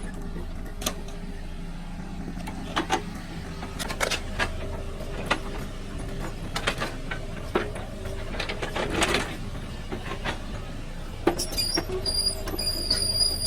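Excavator engine running steadily, with repeated knocks and clanks of the bucket working among big stones. Near the end a high-pitched metallic squeal starts up and pulses.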